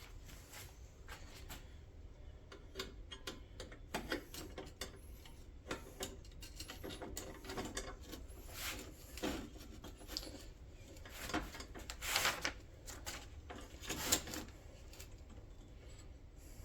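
Irregular clicks, taps and scrapes of parts being handled and fitted by hand, with a few louder scrapes in the second half.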